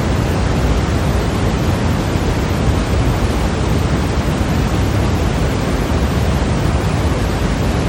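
Continuous white noise for sleep: a steady, unchanging hiss, heavier in the low end, with no breaks or variation.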